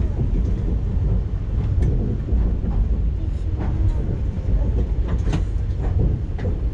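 Train running on the rails: a steady low rumble with irregular clicks and knocks from the wheels and track.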